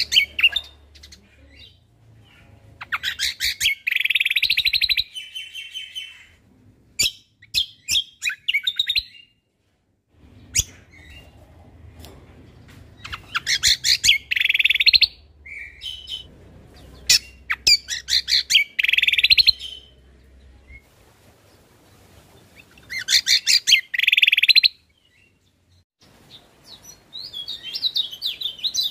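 Cucak kombo (kecial kombok) songbird singing a competition-style song: loud bursts of rapid trilled notes come every few seconds, separated by short sharp chips and pauses.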